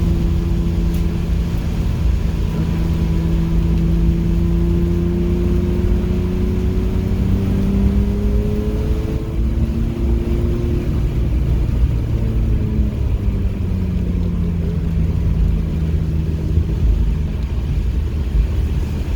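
Car engine heard onboard during a track lap, its pitch climbing slowly for about eight seconds under acceleration, then falling in steps as the throttle comes off, and settling to a steady tone near the end, over a heavy low rumble of road and wind noise.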